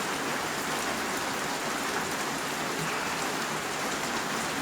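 A steady, even hiss that stays the same throughout.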